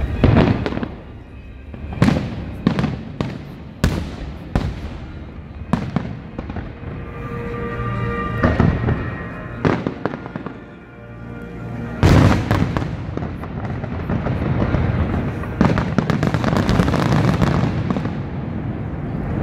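Fireworks display: a series of sharp shell bursts, then a loud burst about twelve seconds in followed by continuous dense crackling, with music playing underneath.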